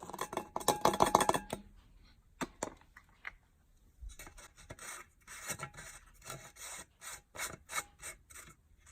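Rubbing, scraping and clicking of things being handled by hand: a dense rattling scrape for about a second and a half at the start, then scattered short rubs and clicks.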